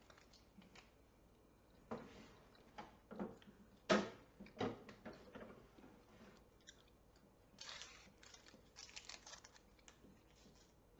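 A person chewing a firm, chewy Puchao melon candy: faint, irregular clicks and knocks, the loudest a few seconds in, then lighter, crisper ticks later on.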